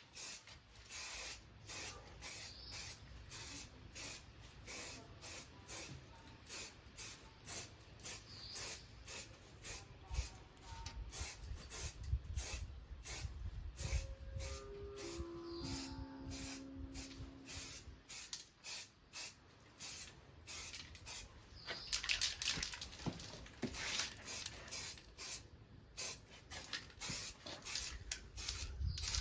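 Paint being sprayed in short, rapid bursts of hiss, about two a second, as the frame of a motorcycle is sprayed. About halfway through, a short run of four steady notes steps downward in pitch.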